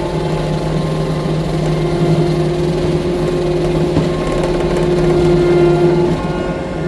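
Diesel engine of a 6-ton compact track loader (tracked skid steer) running steadily at a constant pitch.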